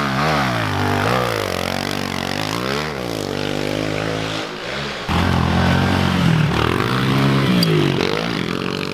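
Pit bike engine revving up and down repeatedly as the bike rides through the track. About five seconds in it turns suddenly louder and closer, then the pitch falls near the end.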